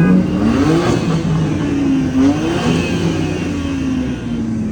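Car engine revving, its pitch rising and falling several times over steady engine and traffic noise.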